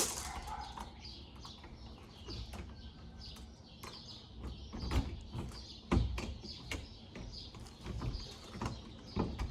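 A few scattered knocks and clunks, the loudest two about five and six seconds in, with faint bird chirps between them.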